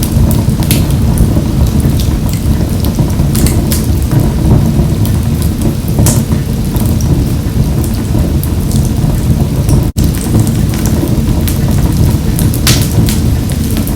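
Wood fire burning in a wood-burning stove: a steady low rumble of flames with scattered sharp crackles and pops. The sound cuts out for an instant about ten seconds in.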